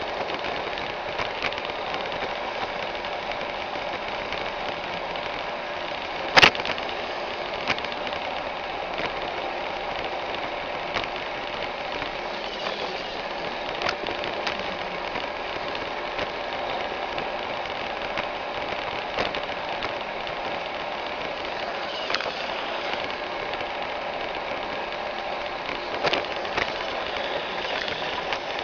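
iRobot Roomba 610 robot vacuum running, its motor and brushes giving a steady whir. A sharp knock comes about six seconds in, and lighter clicks and knocks are scattered through, with two close together near the end.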